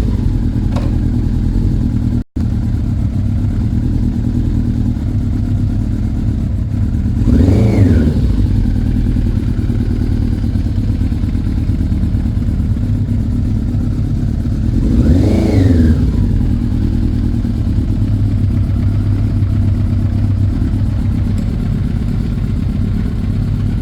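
Yamaha Thunderace's inline-four engine idling warm and steady. The throttle is blipped twice, about seven and fifteen seconds in, each a short rev that rises and falls back to idle.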